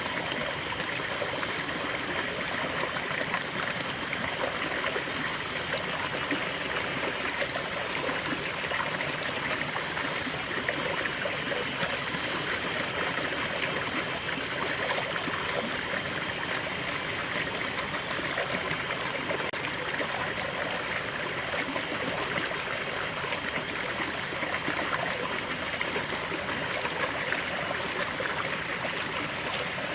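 Small waterfall and stream flowing steadily over rocks, a constant splashing, trickling rush with no change.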